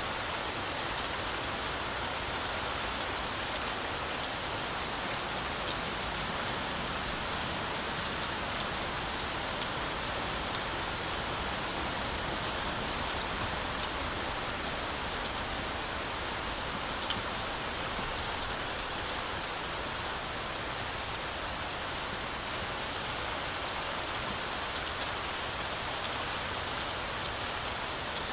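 Heavy rain falling steadily through a forest canopy, a dense even hiss with occasional single drops ticking out.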